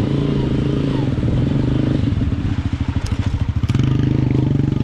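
A motor engine running steadily, its low hum pulsing evenly throughout, with two sharp clicks about three seconds in.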